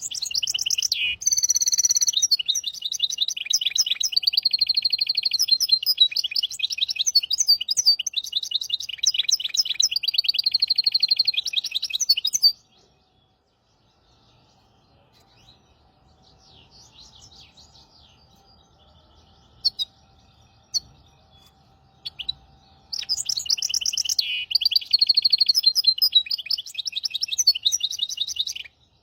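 A hybrid songbird singing a long, fast, rapidly repeated song. It breaks off about twelve seconds in, gives only a few faint notes for a while, and starts a second loud song phrase a few seconds before the end.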